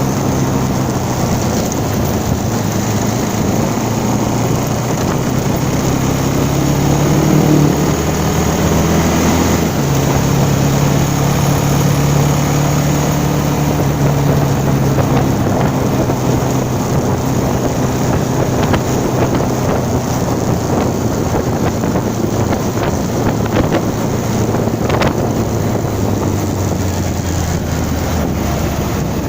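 Engine of a moving vehicle running under way, with wind buffeting the microphone. The revs climb for a few seconds, drop suddenly about a third of the way in as on a gear change, then hold steady.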